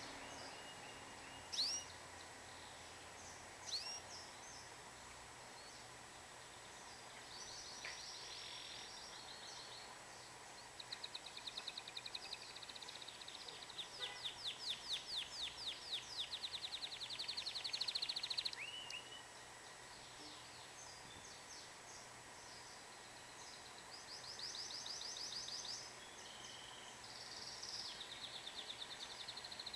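Domestic canary singing: sharp chirps, then long rapid trills, loudest about halfway through, with more trill phrases near the end.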